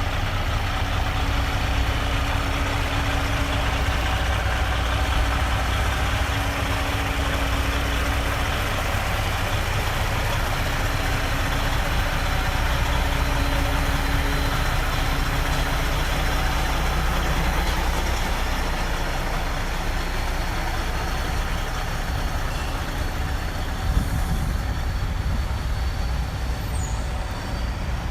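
Diesel engine of a 2006 Freightliner C120 Century semi truck idling steadily, with one short sharp knock near the end.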